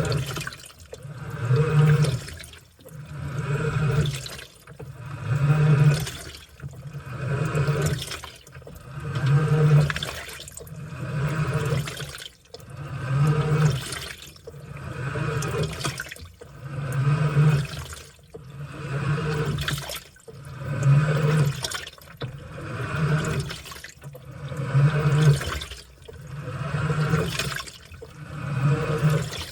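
Washing machine on its wash cycle: water and laundry sloshing in regular swells about every two seconds as the wash turns, with short lulls between.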